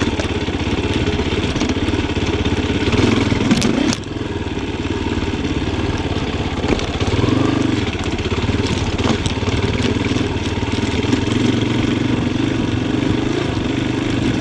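Yamaha Tricker XG250's single-cylinder four-stroke engine running at low to moderate revs on a trail ride, the revs rising and falling with the throttle. A couple of sharp knocks come a little before the four-second mark, followed by a brief drop in engine loudness.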